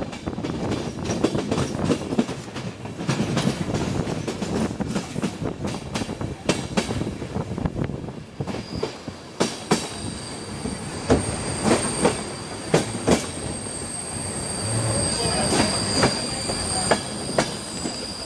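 Passenger train running, heard from aboard, with the wheels knocking sharply and irregularly over rail joints. About halfway a high, steady metallic wheel squeal sets in and carries on under the knocking.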